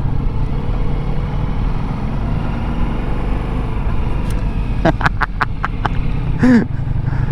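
Ducati Multistrada V4S's V4 engine running with wind noise while riding, a steady low rumble. A quick run of sharp clicks comes about five seconds in, followed by a short pitched sound about a second later.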